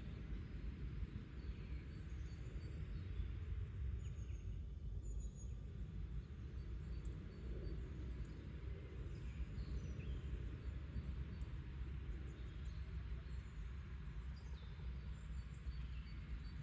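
Garden ambience: a steady low rumble with faint, scattered chirps of small wild birds and occasional soft low clucks from the hens.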